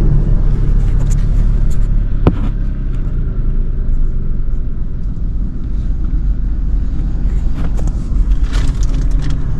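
Mahindra XUV300's engine idling, heard from inside the cabin: a steady low rumble, with a single sharp click about two seconds in.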